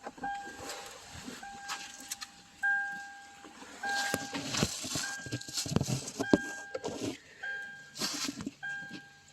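A 2007 Toyota Tundra's cabin warning chime beeping steadily, one tone repeating about once a second, mixed with rustling and clicking as small parts are handled.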